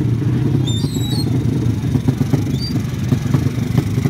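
Motorcycle engine running at a steady idle with an uneven, pulsing rumble, and a few short high chirps a little under a second in.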